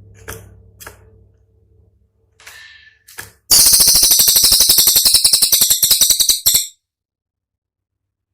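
Cililin songbird giving a few faint short calls, then a loud, rapid rattling burst of sharp notes, about a dozen a second, lasting about three seconds and stopping abruptly: the tight 'tembakan' burst used to train other songbirds.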